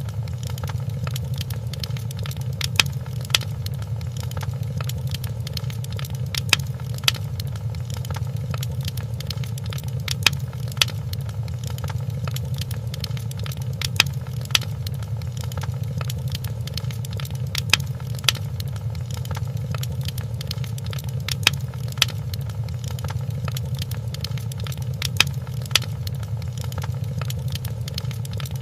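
Wood fire crackling in a fireplace: a steady low rumble of the flames under sharp pops and snaps. Louder pops come in pairs about every four seconds, with lighter ticks between them.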